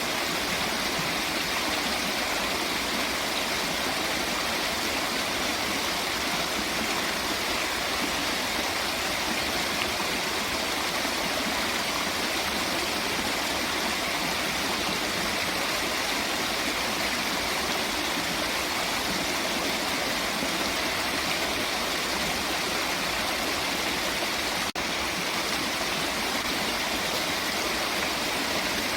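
Waterfall: a steady, unbroken rush of falling water, with one split-second dip about 25 seconds in.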